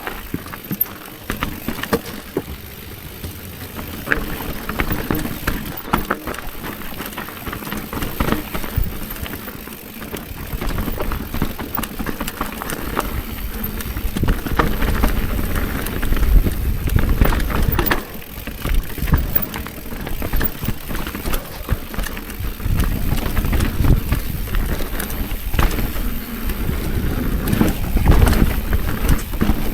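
Bicycle riding down a rough trail: tyres rolling over dirt and stones with the frame and chain rattling over bumps. Heavy wind rumble on the microphone grows louder from about halfway through as the speed picks up.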